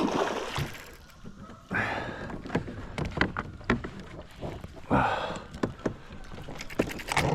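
Kayak paddling: three water swooshes from paddle strokes, with sharp knocks and clicks scattered between.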